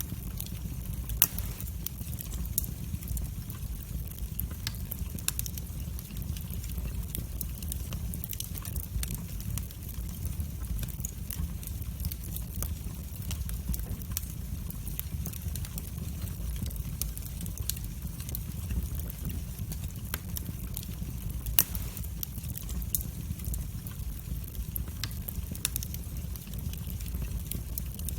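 Wood fire burning in a fireplace: a steady low rumble of the flames with frequent sharp crackles and pops of the burning wood. Two louder pops stand out, about a second in and near 22 seconds.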